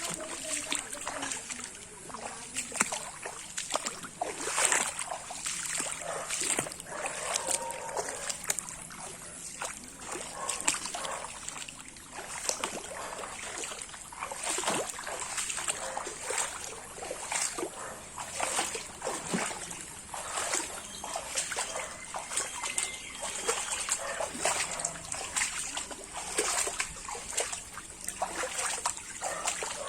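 Floodwater splashing and sloshing in many small, irregular splashes, with trickling in between.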